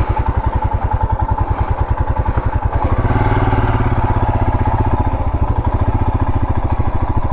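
Royal Enfield Himalayan's 411 cc single-cylinder engine running at low revs, with an even beat of about ten firing pulses a second. About three seconds in it gets louder and fuller.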